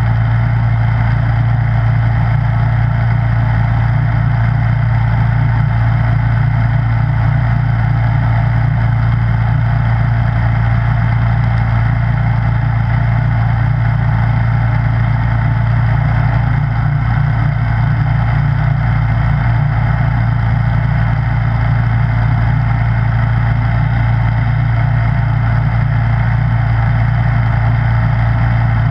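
Snowblower engine running steadily at a constant speed, with a strong low hum and no change in pitch or level.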